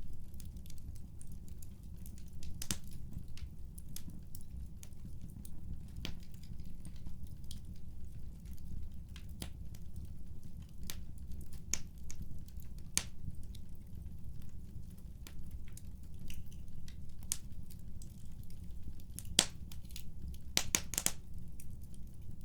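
Fireplace crackling: irregular sharp snaps and pops over a steady low rumble, with a louder snap about three-quarters of the way through and a quick cluster of them near the end.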